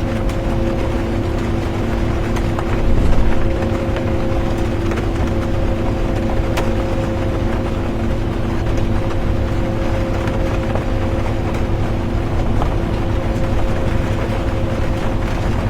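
Interior of a moving bus: steady engine hum over a low road rumble, with scattered faint ticks of rain on the bus and a brief louder bump about three seconds in.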